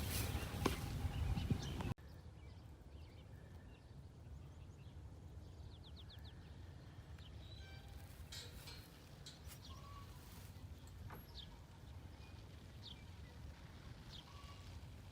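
Faint outdoor background with scattered short, high bird chirps, after about two seconds of louder noise with a few sharp knocks that cuts off abruptly.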